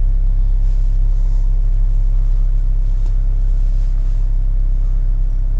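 Car engine idling steadily just after a cold start in subzero cold, its coolant still well below freezing, heard from inside the cabin as an even low rumble.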